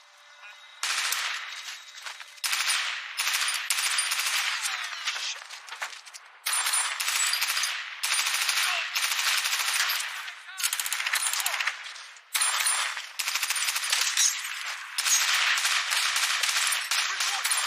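Movie gunfight soundtrack: rapid automatic gunfire in repeated long bursts with short breaks between them, sounding thin with almost no bass.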